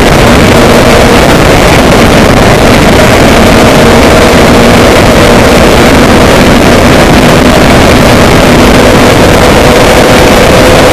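Loud, steady rushing noise with a low engine drone underneath, from a moving vehicle.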